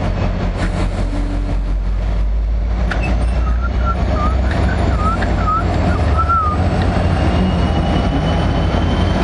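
NJ Transit commuter train pulling out of the station, its diesel locomotive giving a steady low rumble. A run of short wavy squeaks comes about three to six seconds in, and near the end a faint high whine rises slowly as the train picks up speed.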